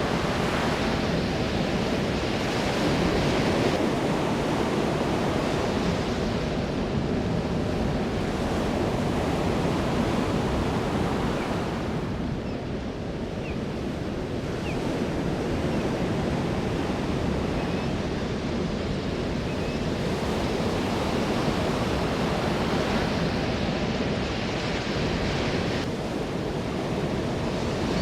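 Ocean waves breaking and washing on a shore, a continuous surf roar that swells and ebbs every few seconds.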